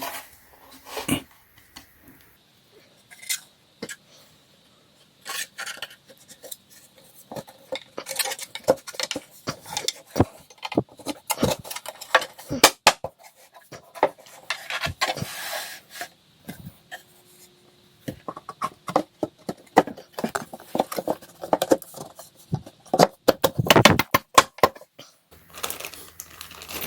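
Irregular clinks, clicks and knocks of flat-pack nightstand panels and small hardware being handled and fitted together during assembly, sparse at first and busier from about eight seconds in.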